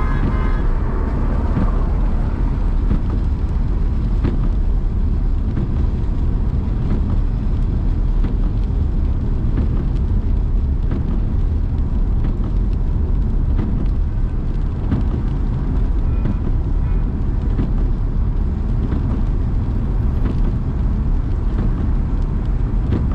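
Steady rumble of a car driving through traffic, with road and tyre noise. A car horn sounds briefly at the very start.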